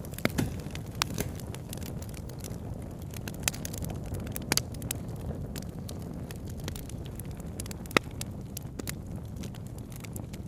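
Campfire crackling with sharp, irregular pops, the loudest about eight seconds in, over the steady low rush of a flowing river.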